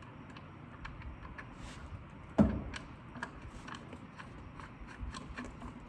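Light scattered clicks and taps of metal parts being handled while fitting the top bushing and nut onto a strut, with one louder knock about two and a half seconds in.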